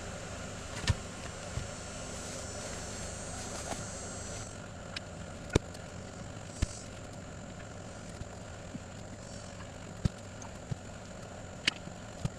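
A vehicle engine running steadily while driving, with several sharp knocks and rattles from bumps along the way.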